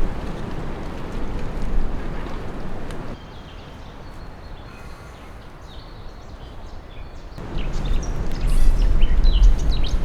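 Strong wind rushing through forest trees and buffeting the microphone with a low rumble. It drops off abruptly about three seconds in and builds again near the end. Small birds chirp through the quieter stretch and the last gust.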